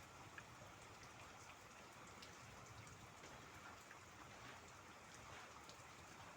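Faint steady rain, with small scattered drop ticks over a soft, even hiss.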